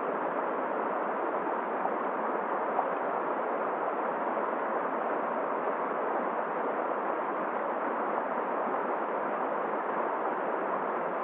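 Steady rushing of a cold flowing river blended with blizzard wind, an even unbroken noise with no single events.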